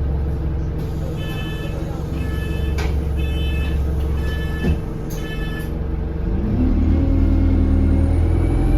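Inside an Alexander Dennis Enviro200 single-deck bus: the engine hums steadily while about five electronic beeps sound, roughly one a second. Near the end the engine revs rise as the bus pulls away, with a faint high turbo whistle climbing in pitch, the whistle being a sign of a turbo leak.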